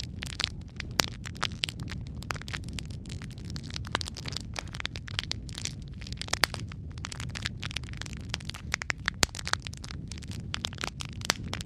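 Wood fire crackling: dense, irregular snaps and pops over a steady low rumble of the burning logs.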